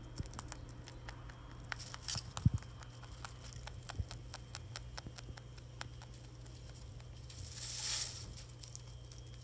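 Pet rabbit moving about: scattered light clicks and taps, one sharp thump about two and a half seconds in, and a brief rustle near the end, over a steady low hum.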